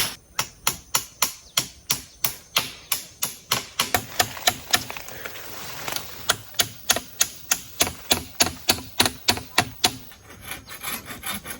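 Wood being worked by hand with a blade or saw: a quick, even run of sharp strokes, about three a second.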